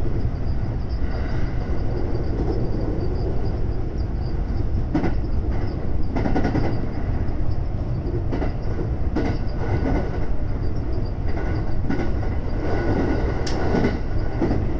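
JR West 521 series electric train running, heard from inside the front car: a steady rumble of wheels on rail, with scattered clicks as the wheels pass over rail joints.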